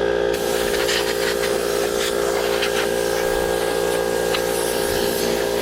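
Compressed air blowing dirt off furnace fins, a loud steady hiss that surges in spurts, over a steady hum.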